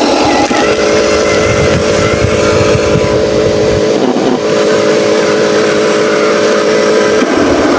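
Huina 1501 RC Scania logging truck running: a steady whine from the model's drive that breaks and shifts pitch briefly about four seconds in and again near the end.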